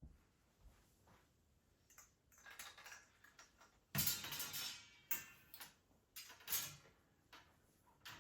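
Irregular light taps, clinks and rustles of objects being handled, the loudest a sharp clink with a short ring about four seconds in.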